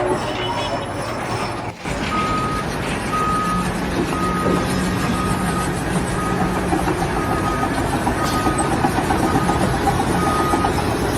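A construction vehicle's reversing alarm beeping about once a second over the noise of its running engine, starting about two seconds in.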